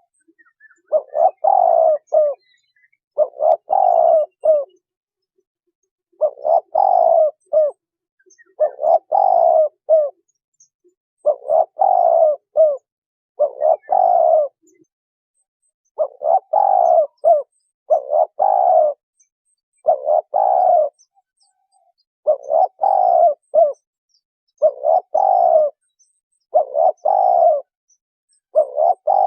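Spotted dove cooing: a repeated phrase of several short coos, given about every two seconds, around a dozen times.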